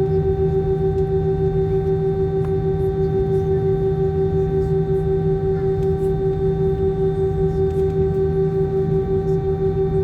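Aircraft engines running steadily: a loud droning hum with a few steady tones over a low rumble, pulsing in a regular beat.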